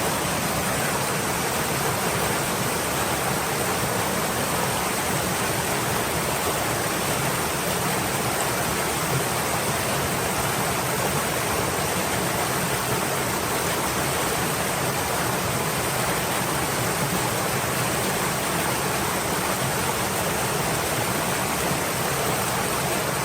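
A stream flowing, a steady, even rush of water without splashes or breaks.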